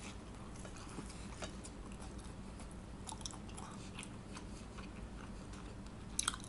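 A person chewing a mouthful of pizza close to the microphone: faint, scattered wet mouth clicks over a low steady background hum.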